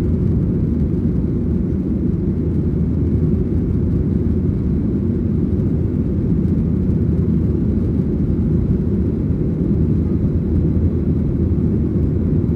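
Steady low rumble inside the cabin of a Boeing 737-900ER in its climb after takeoff: the CFM56-7B engines and the rushing air, heard from a rear window seat.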